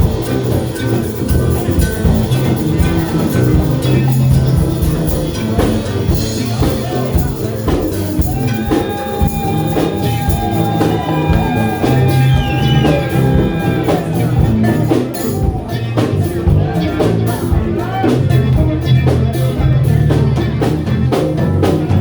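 Live band music with a drum kit keeping a steady beat. About eight seconds in, a lead instrument holds one long note for several seconds, bending in pitch near its end.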